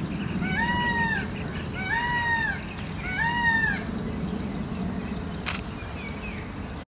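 Indian peafowl calling: three drawn-out calls about a second and a half apart, each rising and then falling in pitch, over a steady background hiss. After them comes only a faint click, and the sound cuts off suddenly near the end.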